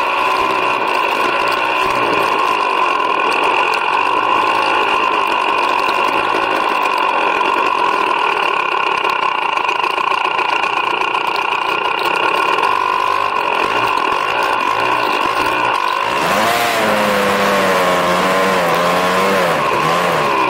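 Snow bike engine running steadily under load. About four seconds before the end the pitch starts to waver up and down as the throttle changes.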